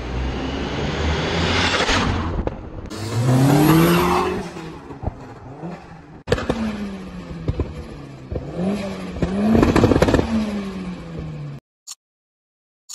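Car engines revving and accelerating hard in short cut-together clips, the pitch climbing and dropping with each rev and gear change, with a few sharp pops. The sound cuts off suddenly near the end.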